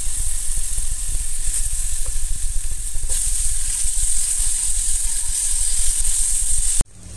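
Hot oil sizzling and crackling in a pot with chopped garlic frying; the sizzle grows louder about three seconds in as tomato wedges go into the oil. The sound cuts off suddenly near the end.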